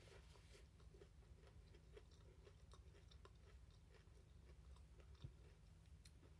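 Faint chewing of a mouthful of food, a steady run of soft chews and small mouth clicks over a low steady hum.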